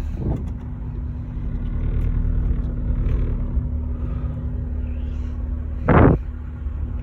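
Honda S2000's swapped-in 2.2-litre four-cylinder engine idling steadily, heard from inside the cabin. A brief louder sound comes about six seconds in.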